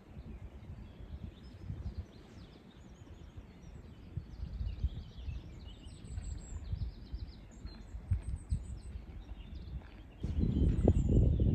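Outdoor ambience: birds chirping in short high calls over a low rumbling noise, and the rumble becomes much louder near the end.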